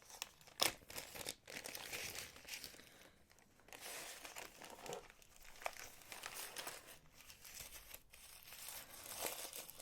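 Packing wrapping crinkling in irregular crackles as it is unwrapped by hand, with a sharper crackle about half a second in and a brief lull around three seconds.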